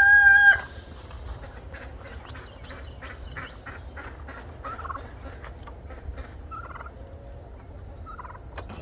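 A loud, drawn-out bird call ends about half a second in. After it, turkeys gobble a few times in short rattling bursts, quieter than the first call.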